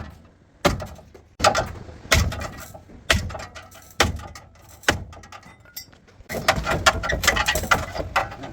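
Sharp metallic knocks, about one a second, then a couple of seconds of rapid clatter near the end: tool work on a car in a repair shop.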